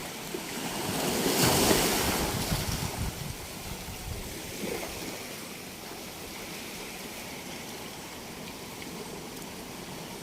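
Sea waves on a beach: one wave swells and breaks about a second and a half in, then washes out into a steady hiss of surf.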